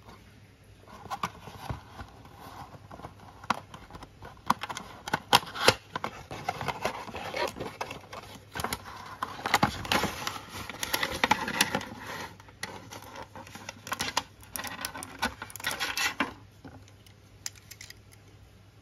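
Close-up handling of a small model's packaging: irregular rustling, scraping and sharp clicks of cardboard and plastic being opened and turned over, busiest in the middle and dying away to a few ticks near the end.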